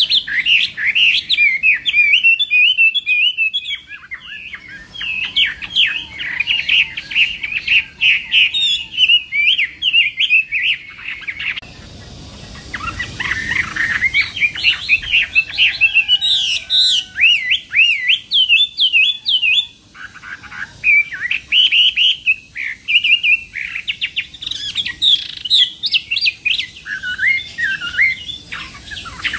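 Chinese hwamei singing a long, rapid, varied song of high whistled notes, with a short break about twelve seconds in.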